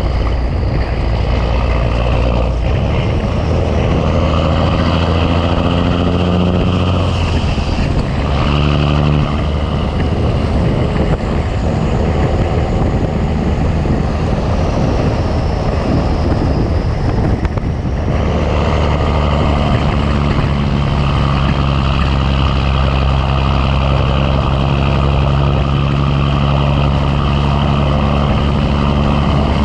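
Big Cam Cummins inline-six diesel in a Ford LT9000 truck pulling under load. The revs climb, break off and climb again a few times in the first ten seconds, then settle into a steady pull.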